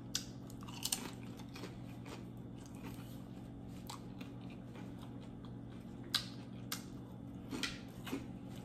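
Close-up chewing of loaded nacho tortilla chips: irregular crisp crunches, a few about a second in and more in the last few seconds, over a faint steady hum.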